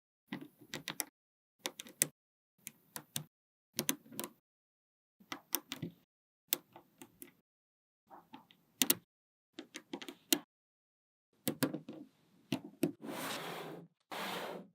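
Small magnetic balls clicking and snapping together in quick clusters of clicks with short silent gaps between them. Near the end come two longer, noisier stretches.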